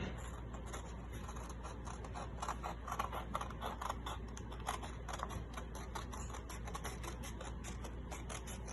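Scissors cutting through a sheet of paper, a quick run of small snipping clicks as the bottom strip is cut off to make the sheet square.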